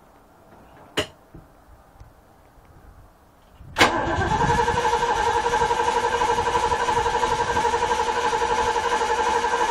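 A sharp click about a second in, then, near four seconds in, the OMC 190 V8 sterndrive engine of a 1978 Sea Ray boat starts with a sudden loud burst and settles at once into steady, evenly pulsing running.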